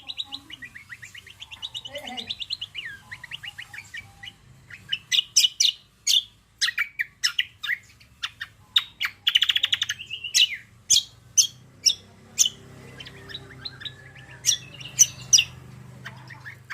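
Songbird singing: a fast series of rising chirps at first, then loud, sharp separate chirps with a short buzzy rattle about midway, over a faint low hum.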